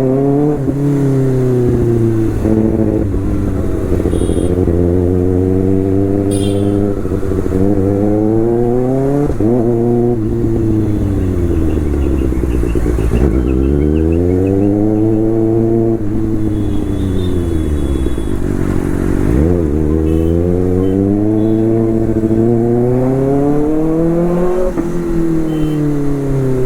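Kawasaki Ninja ZX-6R's inline-four engine on the move, its pitch climbing slowly as the rider accelerates and sinking as the throttle closes, about four times over, with a couple of sharp drops in pitch.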